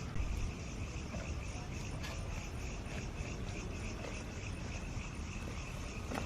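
Insects chirping steadily in a high, pulsing trill, over a low steady rumble of background noise.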